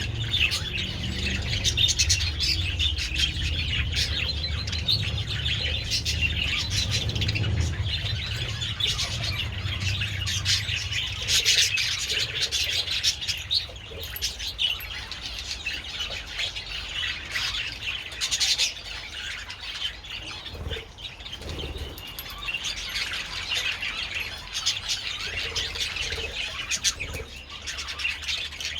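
A colony of budgerigars chattering and chirping all at once in a dense, continuous warble. A low rumble sits underneath for roughly the first half.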